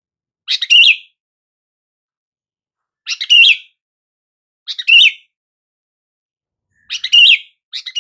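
Sooty-headed bulbul (kutilang) calling: short, bubbly phrases repeated about every one and a half to two seconds, five in all, the last starting near the end, each opened by a quick grace note.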